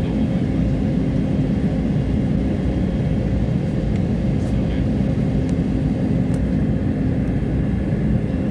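Steady cabin noise inside an airliner on its approach: a constant deep rumble of engines and rushing air, with a faint steady hum in it.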